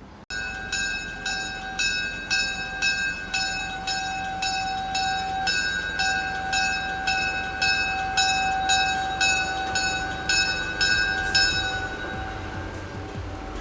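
Locomotive bell ringing steadily, about two strokes a second, each stroke ringing on. It starts suddenly and stops near the end.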